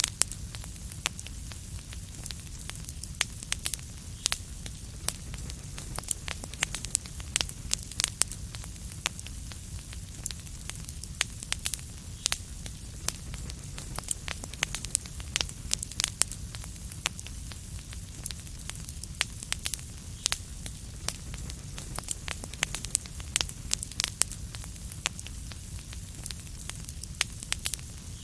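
Wood fire burning in a fireplace: a steady low rumble with many sharp, irregular crackles and pops, several a second.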